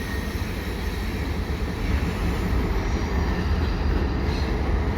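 Two diesel-hauled freight trains passing on parallel tracks: a steady low rumble of locomotives and freight cars rolling over the rails.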